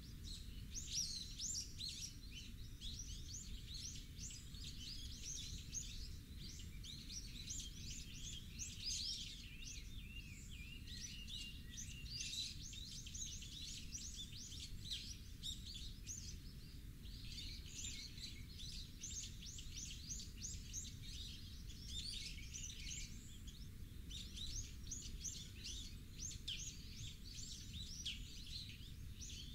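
Many birds chirping and twittering continuously in quick overlapping calls, over a steady low rumble.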